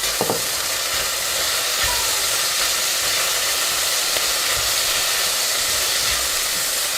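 Food sizzling in a hot pan on the stove: a steady hiss with a few faint knocks.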